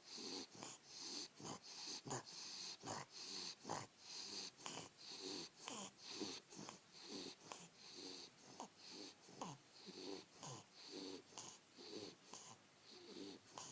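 A sleeping bulldog snoring in quick, even breaths, nearly two a second, each a low rasp with a hiss on top, typical of the breed's short, flat muzzle.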